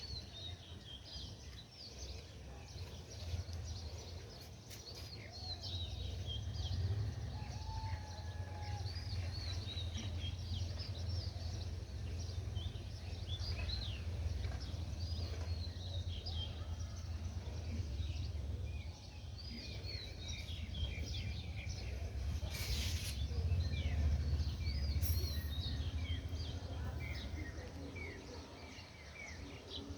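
Many small birds chirping and twittering, with short calls throughout, over a steady low rumble. One brief burst of hiss comes about two-thirds of the way through.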